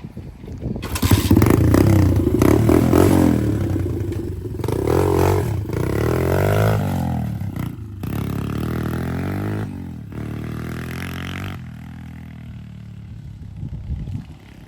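Small dirt bike with a 140 engine swapped in for its original 125, revving hard about a second in and pulling away, its pitch climbing and dropping back several times as it shifts up through the gears, then getting quieter as it rides off.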